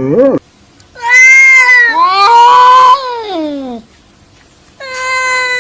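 Angry cat yowling: two long drawn-out calls, the second sliding down in pitch at its end, then a third steady yowl starting near the end.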